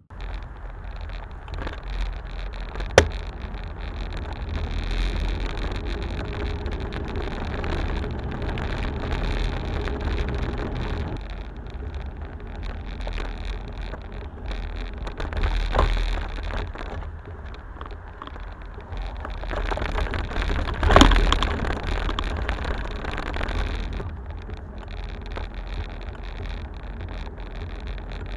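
Loose plastic shutter button of a Rollei Actioncam 420 clattering against the camera body, picked up by the camera's own microphone over a steady low rumble of wind and motion. A sharp click about three seconds in.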